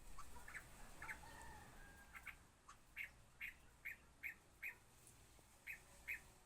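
A bird calling faintly: about a dozen short calls, some in quick pairs, with a brief pause about five seconds in.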